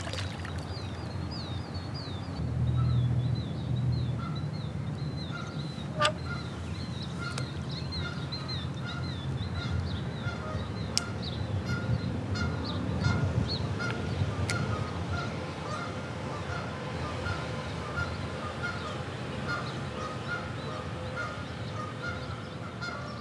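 Birds calling: a short call repeated every half second or so, with high chirping notes over it in the first half.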